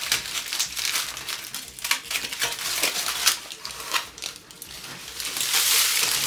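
Crumbled, oven-toasted shredded wheat crackling as it is moved into a bowl: a dense run of small crisp clicks that thickens into a continuous crackle near the end.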